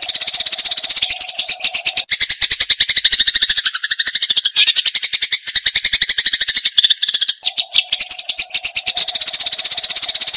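Eurasian tree sparrows giving agitated fighting calls: a dense, rapid chirping of about ten chirps a second, with a lower strand of calls joining in the middle.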